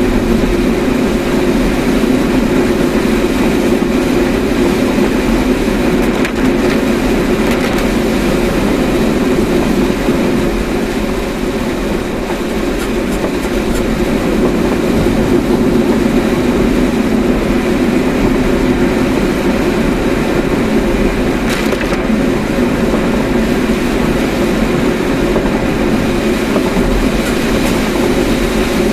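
Steady road and engine noise of a moving car, heard as a constant low drone with no marked changes.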